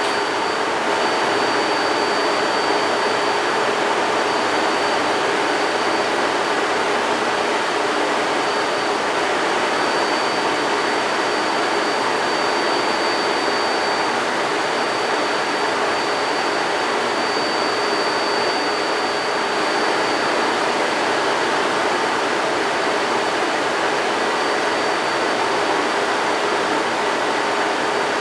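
Caterpillar V12 diesel rig engine running steadily: an even, unchanging roar with a faint high steady whine over it.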